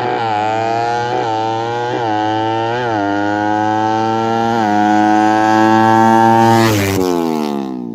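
Suzuki Satria FU single-cylinder motorcycle engine revving high through a Fantera racing exhaust. It is held at high revs with a few short blips while the pitch creeps upward, then drops back off the throttle near the end.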